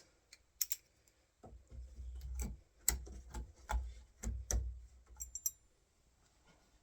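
Irregular light metallic clicks and knocks, with a few dull thumps in between, as door latch and handle hardware is handled and set against the door; it goes quiet after about five and a half seconds.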